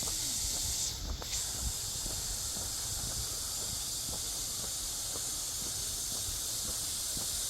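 A chorus of cicadas giving a steady high-pitched hiss that briefly dips about a second in, with low rumble underneath.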